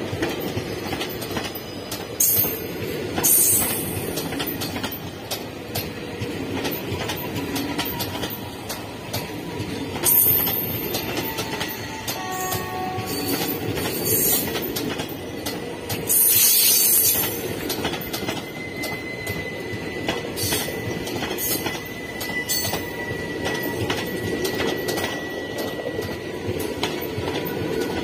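Indian Railways passenger coaches running past at speed: a continuous rumble and clatter of steel wheels on the rails, with clicks over the joints. A few louder rushes of noise come and go, and a thin high whine of wheel squeal holds through the second half.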